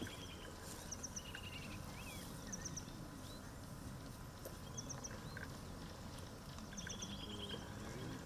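Birds calling: a short, high triple chirp repeated every second or two, and now and then a quick trill of repeated notes, over a steady low background noise.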